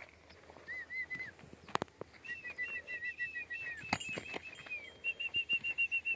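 A bird singing in quick runs of short, evenly repeated chirps at a steady high pitch: a brief run about a second in, then longer, faster runs from about two seconds on. Two sharp clicks, one near the two-second mark and one near the middle.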